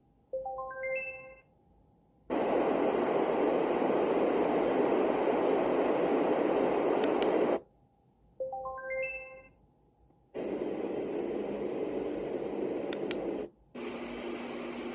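White noise machine: a short rising chime of beeps, then a steady hiss of white noise; about eight seconds in it chimes again and plays noise once more, switching near the end to a different noise sound with low steady tones in it.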